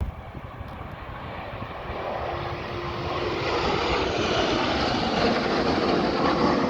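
Airplane engine noise, a broad rushing rumble that grows steadily louder as the aircraft approaches.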